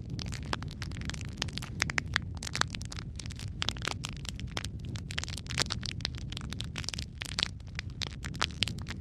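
Wood logs burning in a fireplace: dense, irregular crackles and pops over a steady low rumble of the flames.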